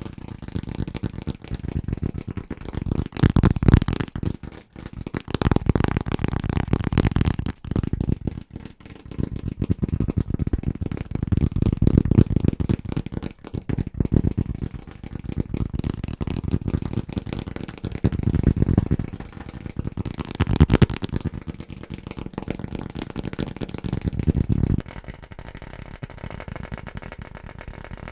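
Fast, aggressive tapping with fingertips and nails on assorted household objects: dense, rapid taps whose sound changes every few seconds as the item changes. A little before the end the tapping turns lighter and thinner.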